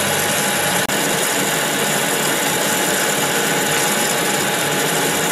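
Metal-working lathe running steadily, an even machine hum and whirr with a brief cut-out about a second in.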